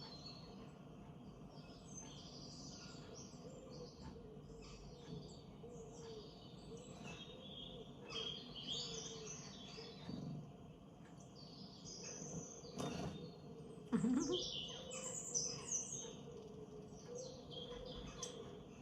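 Small birds chirping and twittering in short, scattered calls, over a faint steady hum. A brief sharp knock about 13 seconds in, followed by a short rising sound just after.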